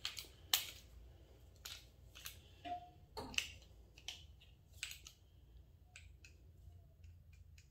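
Scattered light clicks and taps, about a dozen at irregular intervals, from a torque wrench being handled and reset to a higher torque setting.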